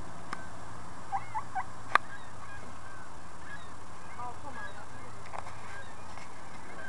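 Geese honking: a scattering of short calls, some overlapping, over a steady low hum, with a sharp click a little under two seconds in.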